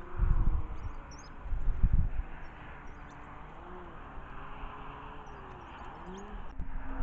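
Small songbirds chirping with short, high calls scattered throughout. Wind buffets the microphone with low rumbles near the start and again around two seconds in.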